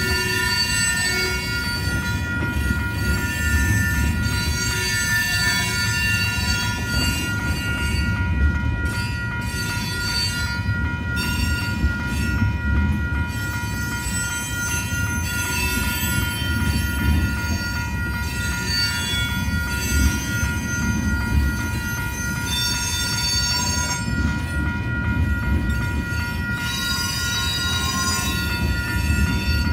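Freight train tank cars rolling steadily past a grade crossing: a continuous low rumble of wheels on rail. Over it run high, steady ringing tones, one of them pulsing rapidly and evenly, like a crossing warning bell.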